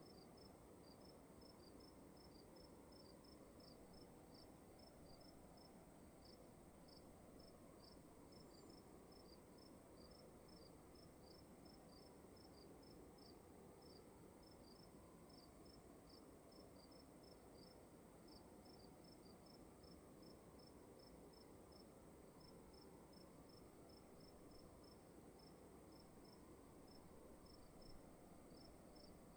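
Crickets chirping faintly in a steady run of short high chirps, several a second, over a quiet room hiss, with a steady high-pitched hum above the chirps.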